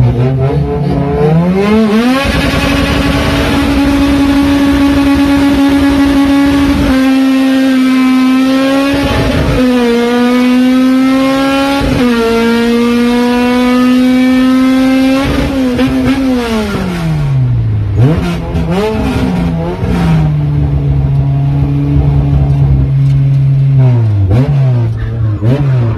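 Honda K-series four-cylinder in a Civic, heard from inside the cabin, launching hard down a drag strip. The revs climb steeply to a high, held pitch and stay near the limiter through three quick upshifts, each a short dip in pitch. Then the driver lifts off, the revs fall away, blip twice, and the engine settles to a low steady run.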